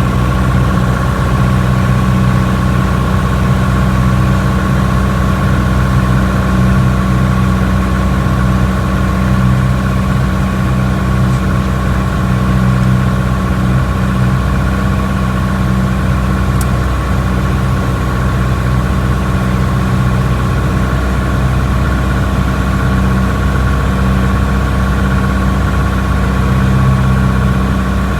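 Piper PA-28's single piston engine and propeller running at a steady power setting: a constant, even drone with a deep hum and a higher whine, no change in pitch or level.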